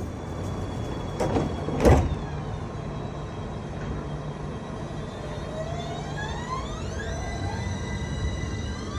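Tram doors closing with a loud knock about two seconds in, then the tram's electric traction motors whining as it pulls away: several tones rising steadily in pitch as it accelerates.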